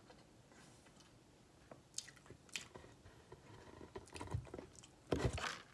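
A person chewing a bite of soft mini layer cake with a white chocolate coating, with scattered small wet mouth clicks. A short, louder burst of noise comes about five seconds in.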